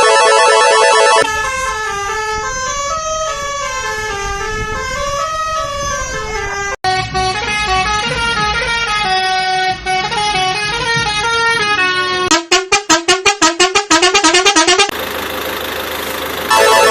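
Synthesized electronic tones: a held horn-like chord gives way to a wavering tune. About twelve seconds in comes a fast pulsing beep, some five pulses a second, and the held horn-like chord returns near the end.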